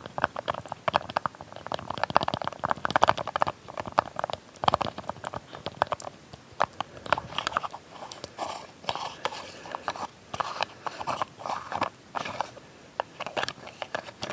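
ASMR sounds of a small lid being tapped and handled: dense, irregular clicks and crackles with no pauses.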